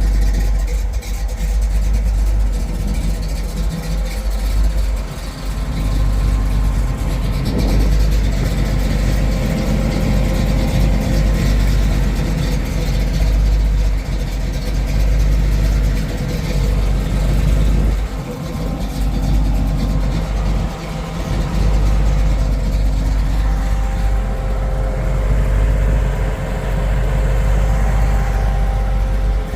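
1968 Pontiac Firebird running steadily, with a continuous low rumble and a few brief dips in level.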